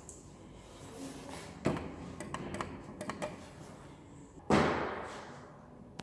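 Schindler lift doors: a few light clicks, then a sudden loud thud about four and a half seconds in that dies away over about a second.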